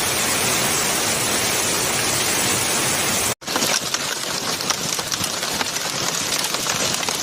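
Hail and heavy rain falling: a steady hiss of downpour, then, after a brief cut about three and a half seconds in, a denser patter full of small sharp ticks of hailstones striking surfaces.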